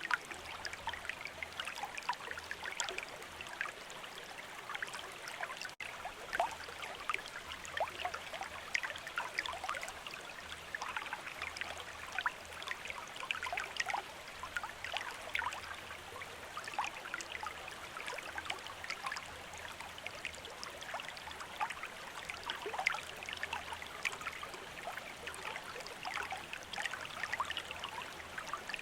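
A small river or stream running, with steady babbling and many little splashes and trickles.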